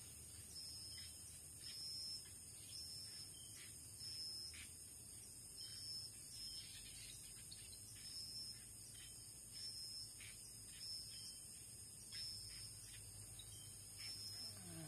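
Forest insects calling: a steady high hiss with a regular high chirp repeating a little more often than once a second.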